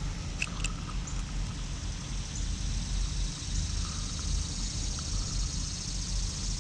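Outdoor background: a steady low rumble with an even hiss, and a couple of faint short chirps about half a second in.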